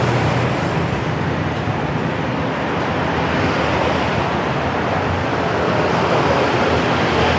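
Steady roar of city street traffic, motorbikes and cars passing on a busy road.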